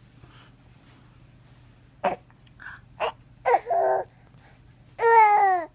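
Baby vocalizing: a few short grunts and squeaks, then near the end a longer, high whiny cry that falls in pitch.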